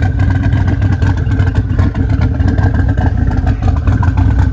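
Loud car engine running steadily with a rapid, choppy exhaust pulse; it cuts off shortly after the end.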